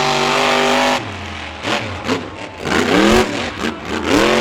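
Monster truck engine at high revs, held steady, then cutting off about a second in, followed by a run of quick throttle blips that rise and fall in pitch.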